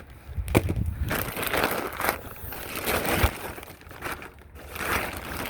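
The packaging on a roll of heavy-duty pet screen being opened and pulled off: a run of irregular crinkling and crunching noises.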